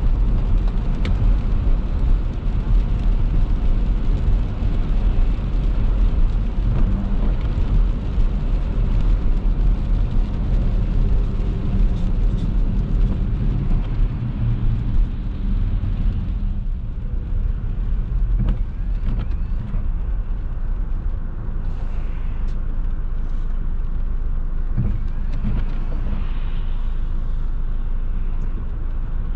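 Car driving on a wet road, heard from a dash-mounted camera: a steady low rumble of engine and tyres with a hiss of tyre spray. The hiss thins out about halfway through while the rumble carries on.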